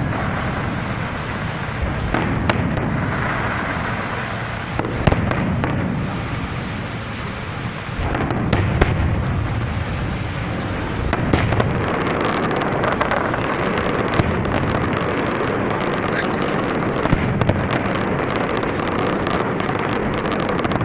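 Fireworks going off without pause: many sharp bangs and crackles over a dense, continuous wash of noise.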